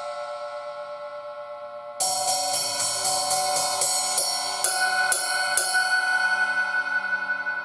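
Struck cymbals ringing: a decaying metallic ring, then about two seconds in a run of about a dozen quick strikes, each ringing on.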